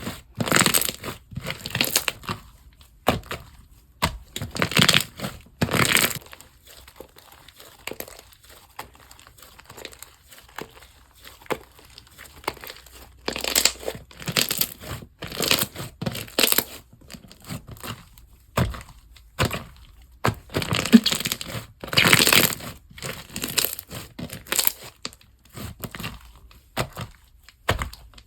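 Slime being squeezed, pressed and stretched by hand, giving uneven bursts of crackly, crunchy noise with short pauses between.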